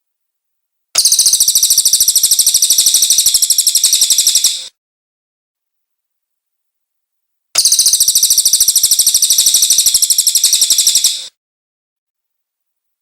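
Cililin bird singing: two long bursts of a very fast, high, rattling trill, each about four seconds, with a pause of about three seconds between them.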